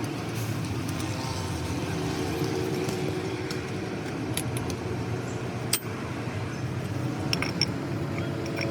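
Metal tools and truck gearbox parts clinking as they are handled: a few short sharp clinks, the loudest nearly six seconds in and a quick group near the end, over a steady low engine-like drone.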